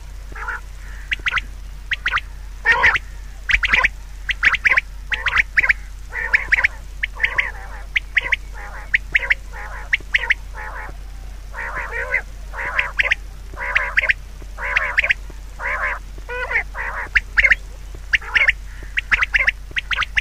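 Many short, harsh animal calls, repeated throughout, some singly and some in quick clusters, over a steady low hum.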